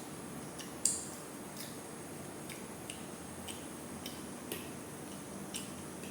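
Close-miked eating: small, sharp clicking mouth and chewing sounds about once a second over a steady hiss, with one louder click about a second in.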